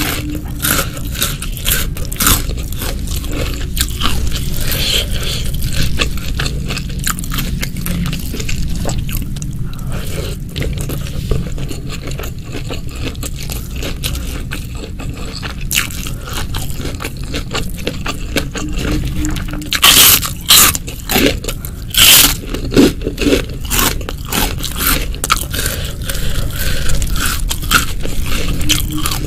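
Close-miked chewing and crunching of crisp food, with a run of louder crunchy bites about two-thirds of the way through.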